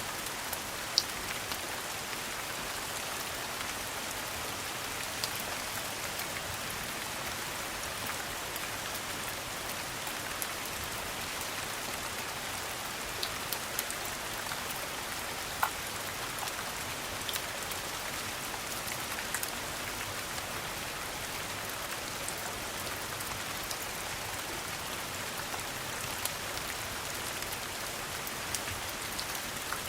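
Steady rain falling, an even hiss, with occasional sharp pops from a crackling wood fire.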